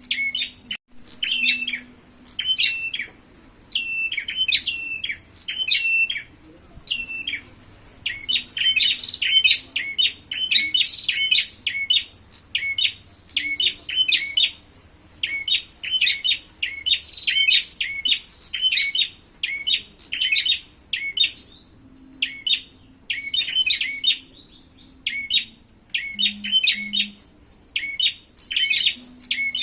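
Prenjak (prinia) birds giving rapid, sharp chirping calls in quick repeated bursts, the excited calling of birds fighting.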